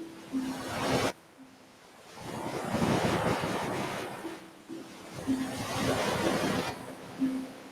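Ocean surf breaking and washing up a beach in slow surges. The wash cuts off abruptly about a second in, then builds into a long swell and ebbs again.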